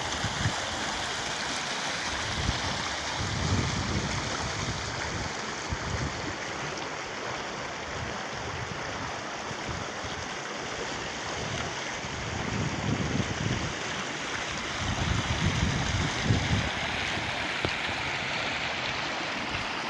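Rainwater runoff from a heavy downpour running steadily, a continuous rushing of water, with irregular low rumbles throughout.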